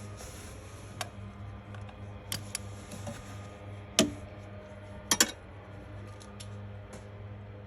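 A few sharp clicks and clinks of small metal parts and hand tools being handled while engine-bay bolts are refitted, the loudest about four seconds in and a quick double click about a second after it, over a steady low hum.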